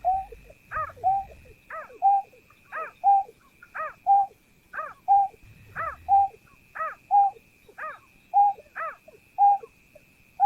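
Greater painted-snipe calling over and over, about once a second: each call is a falling note followed by a shorter, lower note. A faint steady high tone runs underneath.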